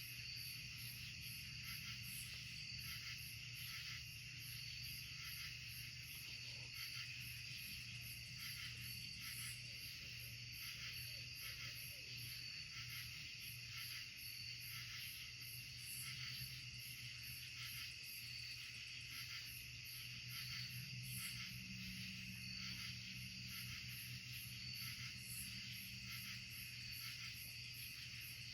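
Night-time insect chorus in woodland: a steady, high-pitched shrilling of many insects, with a fast pulsing trill at the top, over a low steady hum.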